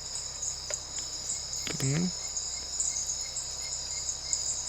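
Steady high-pitched chorus of night-calling rainforest insects. A short rising human "mm" sounds about two seconds in.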